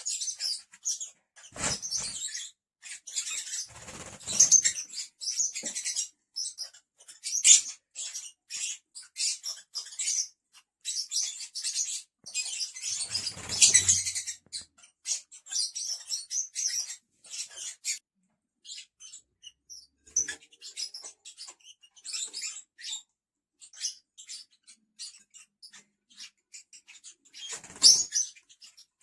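Lovebirds chattering in rapid, high-pitched chirps throughout, with a few short soft thumps in between.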